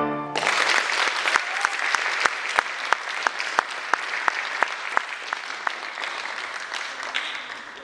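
Audience applauding, with one pair of hands close by clapping loud, distinct claps over the rest; the applause thins out near the end.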